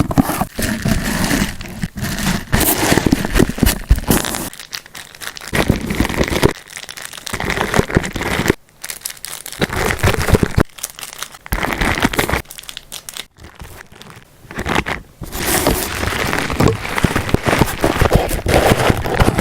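Packaging crinkling and rustling as items are handled and packed, in bursts broken by short pauses.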